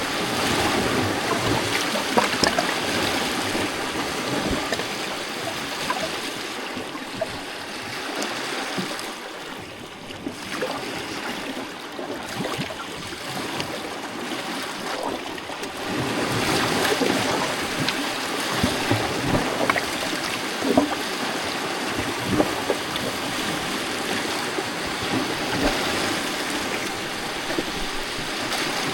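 Small lake waves lapping and splashing against a rocky shore, a continuous wash of water with many small splashes. It eases off about a third of the way in and swells up again just past halfway.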